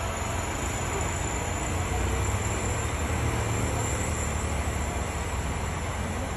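Heavy vehicle engine running steadily, a deep rumble that grows a little louder about two seconds in and eases off again.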